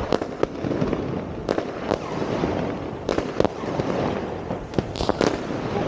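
New Year's fireworks going off: irregular sharp bangs, a few close together at times, over a constant din of many more fireworks further off.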